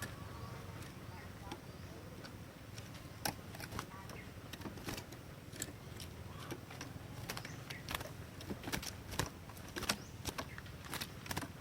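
Cinereous tit (gelatik batu) calling: a run of short, sharp, clicking chip notes at irregular intervals, several a second at times, over a low steady hum.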